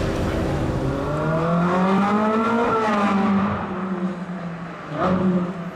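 A car engine revving: its pitch climbs smoothly for a couple of seconds and then falls away, with a shorter rev near the end.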